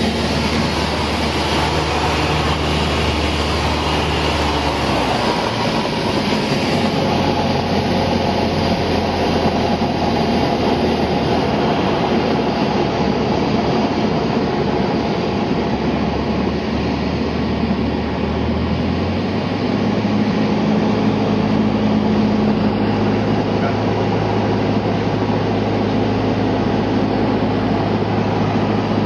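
Cessna 172's propeller engine droning steadily in flight, heard from inside the cabin. Its low hum shifts in pitch about five seconds in and again about two-thirds of the way through.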